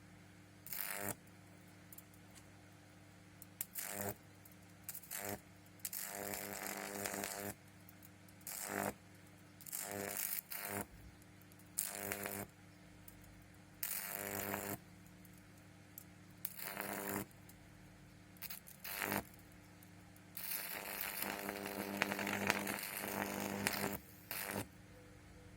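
High-voltage electric arcs from a microwave-oven transformer, buzzing and crackling in repeated bursts that switch on and off, the longest lasting about four seconds near the end. Under them is a steady mains hum.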